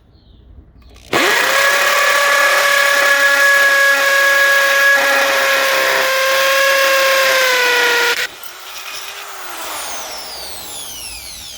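Chicago Electric 1/2 inch corded hammer drill in hammer mode, driving a 5/16 inch masonry bit through cinder block. It starts about a second in with a steady motor whine over the rough chatter of the hammer action, and its pitch sags slightly under load. It switches off about eight seconds in and winds down with a falling whine.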